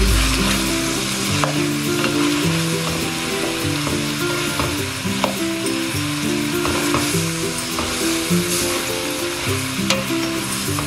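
Chopped beef innards sizzling in oil in a stainless steel pot as they are sautéed to render their fat, stirred with a spoon that clicks and scrapes against the pot now and then.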